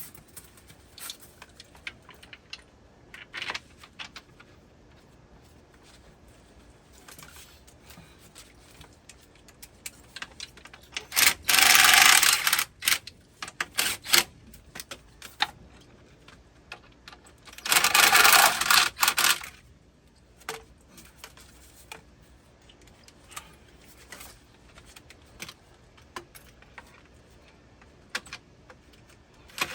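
Light metallic clicking and clatter of screws and hand tools being handled during pump motor reassembly, with two louder noisy bursts, each about two seconds long, about eleven and eighteen seconds in.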